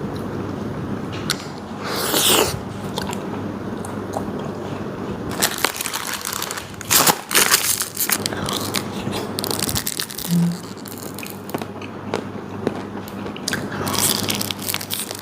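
Close-miked biting and chewing of ice cream, with several crisp, crunchy bites scattered through a steady wet chewing sound.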